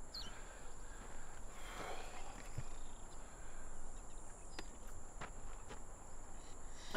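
Faint outdoor ambience: a steady high-pitched hum, typical of insects, under a few soft clicks and light rustling.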